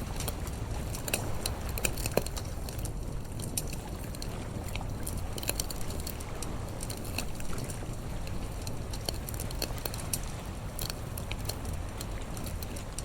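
Campfire crackling with irregular sharp pops, over a steady low rumble of sea surf.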